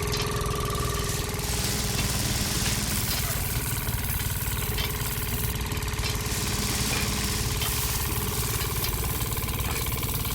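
A small machine's motor running steadily with a fast, even chug.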